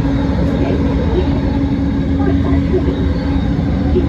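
Bombardier Innovia ART 200 light-rail train running: a steady low rumble with a constant hum over it.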